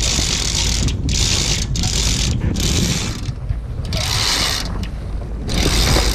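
A sailboat's halyard hauled hand over hand in a series of pulls, the line running through its blocks and around a winch whose pawls ratchet, as the sail is raised head to wind.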